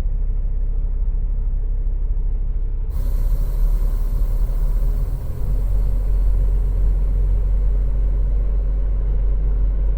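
Peterbilt semi-truck's diesel engine running with a steady low rumble. About three seconds in, a steady hiss joins it.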